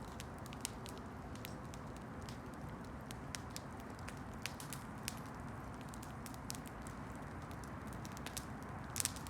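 Campfire burning: a steady low rush of the flames with scattered sharp crackles and pops from the wood, and a quick pair of louder pops near the end.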